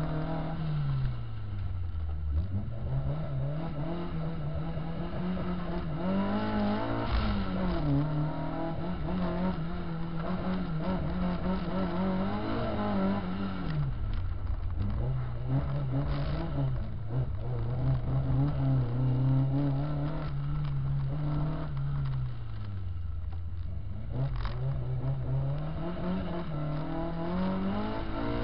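Car engine heard from the car itself as it is driven round a coned course, its pitch repeatedly climbing under acceleration and dropping as the driver lifts off or shifts, holding steadier for a stretch in the middle.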